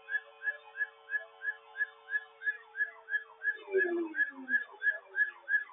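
Electronic alert tone: a rapid train of short falling chirps, about three and a half a second, over a steady lower tone that stops about three and a half seconds in.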